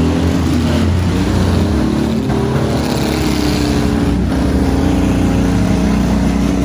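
Several full-size demolition derby trucks' engines revving together, their pitches rising and falling against each other. Two brief knocks come about two and four seconds in.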